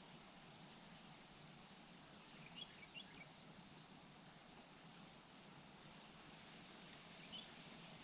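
Faint, very high-pitched bird chirps in short quick series, several times, over a quiet outdoor hiss.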